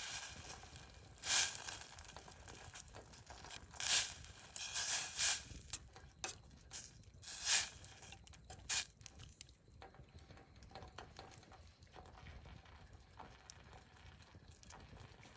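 Wood fire burning in a fire pit, crackling, with a handful of loud pops and short crackling bursts in the first half. After that only a faint crackle remains.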